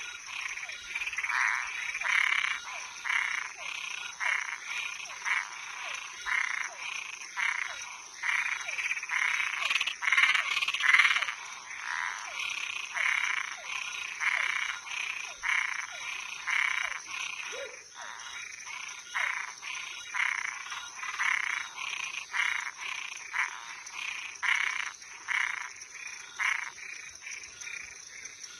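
Frogs calling at night: a chorus of short repeated croaks, about two a second, over a steady high-pitched tone. The calls fall quiet near the end.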